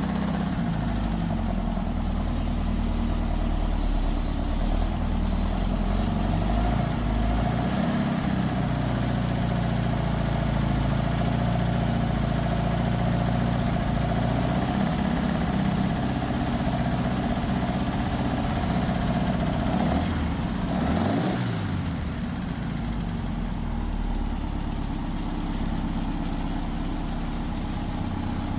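Freshly rebuilt 1967 Porsche 912 air-cooled flat-four engine running cold at a steady idle. About twenty seconds in, its speed briefly sags and picks back up.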